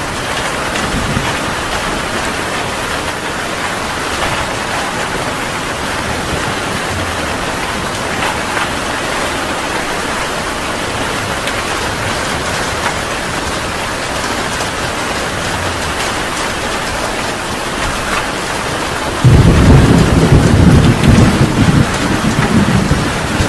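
Heavy rain falling steadily. Near the end a loud low rumble of thunder breaks in suddenly and rolls on.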